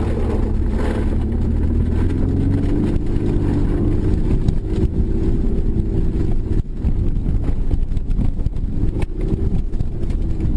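A motor vehicle driving, its engine note drifting up and down, with crackling buffets on the microphone.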